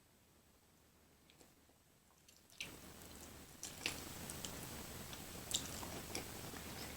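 Close-miked chewing of food: wet mouth sounds with a few sharp clicks. It is very faint for the first two and a half seconds, then louder.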